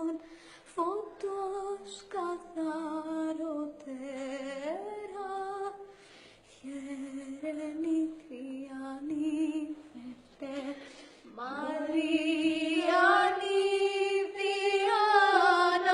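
A solo female voice singing a Byzantine Orthodox chant unaccompanied, in long melismatic held and gliding notes with vibrato. It grows louder and higher about twelve seconds in.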